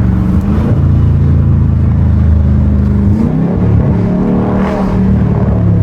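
Dodge Charger Scat Pack's 6.4-litre 392 HEMI V8 running under way, its exhaust louder with the mid muffler deleted. The engine note holds steady, dips about three seconds in, then rises for a second or so before levelling off.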